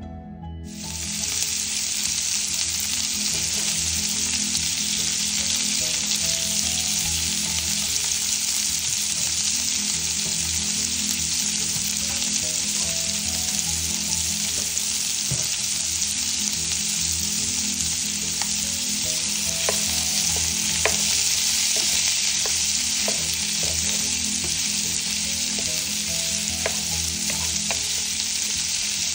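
Chopped sausage pieces sizzling in a nonstick frying pan. The sizzle starts about a second in, and in the second half a wooden spatula stirring them adds scattered clicks and scrapes.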